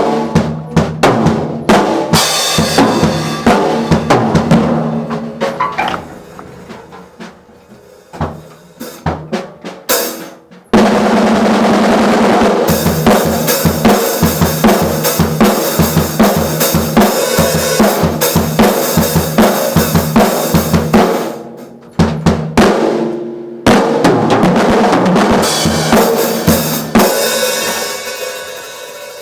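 Mapex drum kit played hard, fast strokes on the drums with a steady high wash above them. It drops to softer playing about six seconds in, comes back loud all at once near eleven seconds, stops briefly around twenty-two seconds, then picks up again and tails off at the end.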